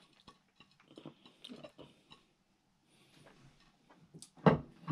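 Close-up eating sounds: a hand-eater chewing fried rice, with small clicks and smacks, louder near the end.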